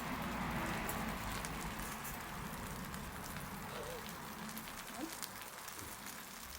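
Campfire sizzling and hissing, with scattered crackles, as grime burns off in the flames. The fizzing 'shuwaa' is strongest in the first couple of seconds and then eases off.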